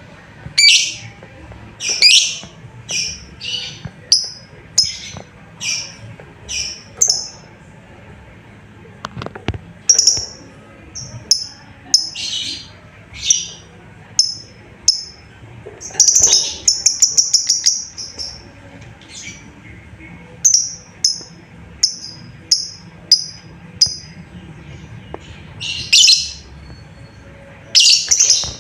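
Lovebird giving repeated contact calls to companions: short, high, sharp chirps about once or twice a second, broken by a quick rattling run of calls around the middle and a few louder, harsher calls.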